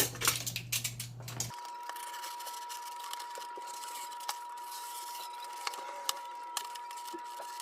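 Rustling and clicking of cardboard being handled, then an abrupt change to a steady high-pitched tone with scattered light ticks.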